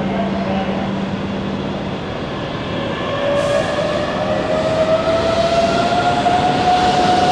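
Keihan electric commuter train pulling away. Its motors give a whine that climbs steadily in pitch as it gathers speed, over the rumble of the cars, and the sound grows louder about three seconds in.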